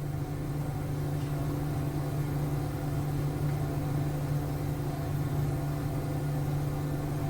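Steady machine hum at one constant low pitch, like an electric motor running.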